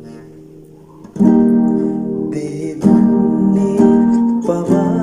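Music: acoustic guitar strumming chords. A chord rings out and fades, then a new strum comes in sharply about a second in, with more strummed chords following.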